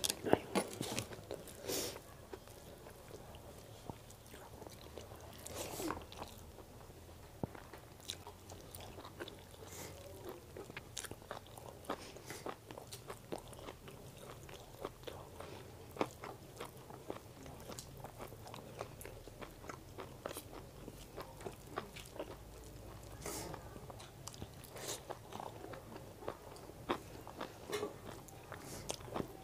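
Close-miked chewing and mouth sounds of a person eating chicken biryani with her fingers: many short wet smacks and clicks. A sharp knock right at the start is the loudest sound.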